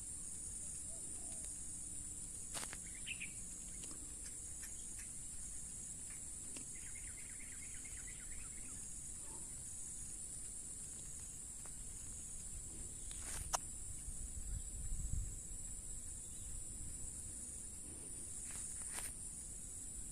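Steady high-pitched insect drone, with a few faint bird chirps. Occasional sharp clicks, the loudest about two-thirds of the way through, followed by a brief low rumble.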